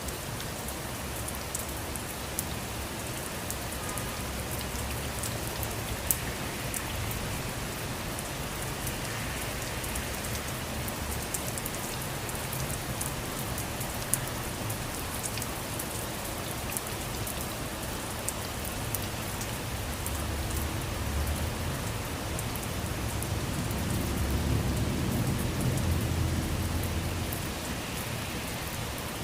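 Steady rain falling, a dense hiss with many small drop ticks. Near the end a low rumble swells and fades.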